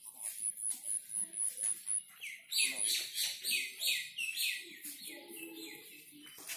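Birds calling in the trees: a fast run of thin, very high notes for the first two seconds, then a loud series of repeated chirps through the middle. Faint distant voices are heard near the end.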